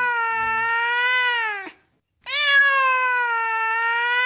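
A cat giving long, drawn-out meows: one ends a little past halfway, and after a brief pause an almost identical one begins, each lasting about two and a half seconds with a steady, slightly arching pitch.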